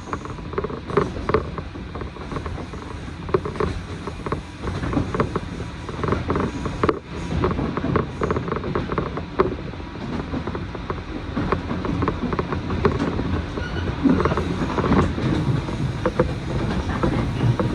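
Passenger train in motion, heard from inside the carriage: the car body and fittings creak and rattle in irregular clicks over the steady rumble of the running gear on the track.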